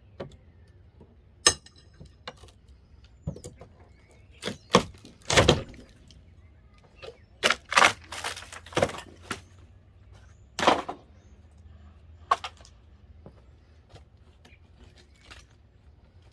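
Old wooden wall boards being broken and pried loose: about a dozen irregular sharp cracks and knocks, thickest in the middle and thinning out near the end.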